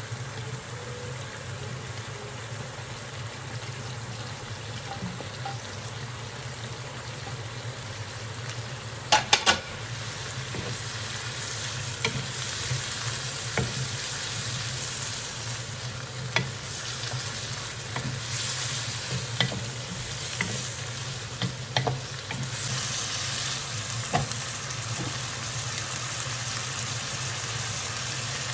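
Beef strips sizzling in a soy-based sauce in a frying pan, stirred with a wooden spatula that clicks against the pan now and then. Three sharp knocks come about nine seconds in, and the sizzle grows louder after them.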